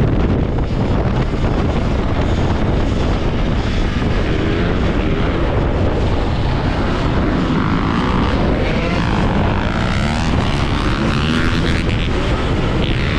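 Off-road motorbike on the move, its motor pitch rising and falling with speed over a heavy rumble of wind on the microphone.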